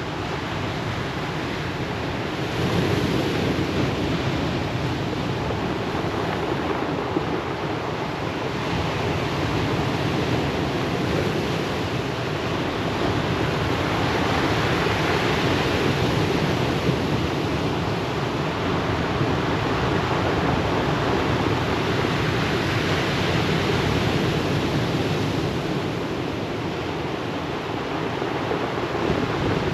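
Ocean waves breaking on a pebble beach: a steady wash of surf that swells and eases every several seconds.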